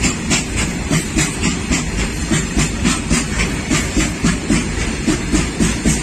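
Freight train of tarpaulin-covered open wagons rolling past, its wheels clacking over the rail joints about four times a second over a steady rumble.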